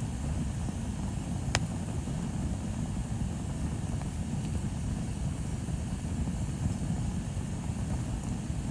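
Bonfire burning with a steady low rumble. A single sharp crackle about a second and a half in, and a fainter pop around four seconds.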